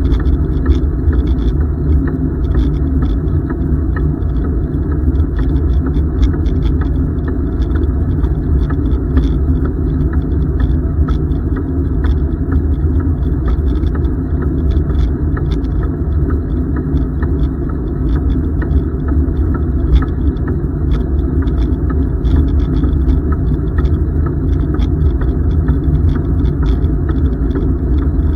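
Steady low rumble of a bicycle ride: wind buffeting the microphone and tyres rolling on the trail, with small irregular ticks and rattles over it.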